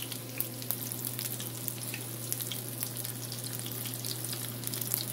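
Breaded shrimp frying in shallow vegetable oil: a steady sizzle with scattered crackling pops, the oil running a little too hot just after the heat was turned down.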